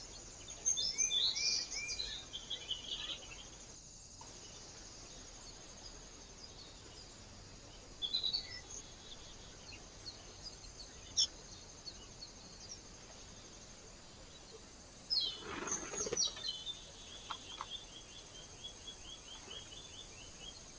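Small birds chirping in scattered bursts of short high calls, ending in a quick run of repeated notes. A brief rustle comes about three-quarters of the way through.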